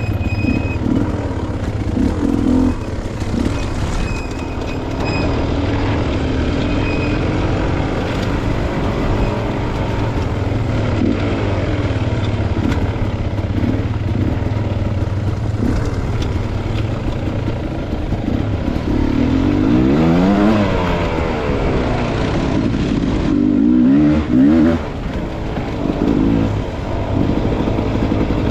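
Dirt-bike engine running on a trail ride, its revs rising and falling with the throttle, with a sharp rev up and back down about twenty seconds in.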